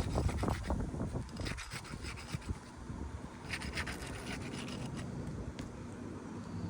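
Irregular scraping and rubbing against asphalt roof shingles as they are worked loose for a shingle repair test.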